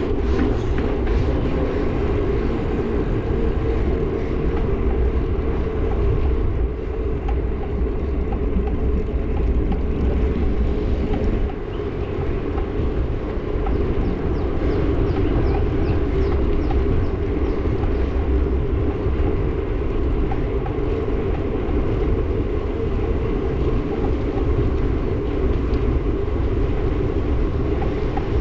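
Steady rush of wind on the microphone with road and traffic noise from riding a bike along a road, with a brief lull about eleven seconds in.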